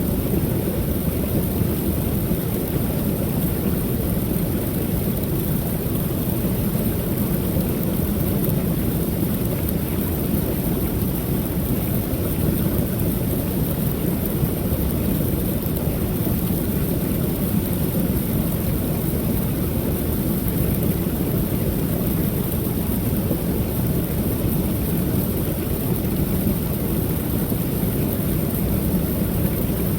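Creek waterfall: water pouring over the falls in a steady, unbroken low rush.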